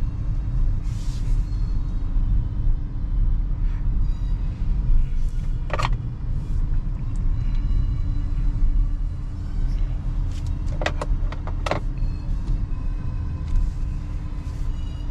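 Steady low road and tyre rumble from a small electric car on the move, with no engine note. Sharp clicks or knocks sound about six seconds in and three more times close together near the end.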